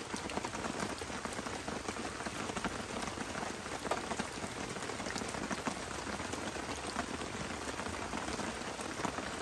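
Steady rain falling on wet, leaf-covered ground, with a few small scattered clicks of drops.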